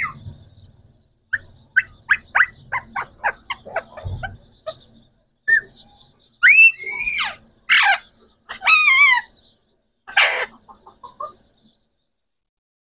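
Green parrots calling: a quick run of short, sharp chirps, then several loud squawks that glide up and down in pitch and one harsh screech.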